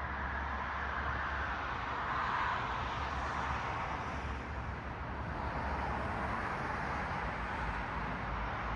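Steady road traffic noise from cars passing, a continuous tyre-and-engine wash that swells slightly a couple of seconds in and again about six seconds in, over a low rumble.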